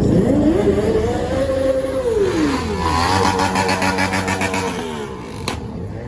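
Car engine revving: the pitch climbs, holds, then drops away about two seconds in. It settles again and winds down near the end.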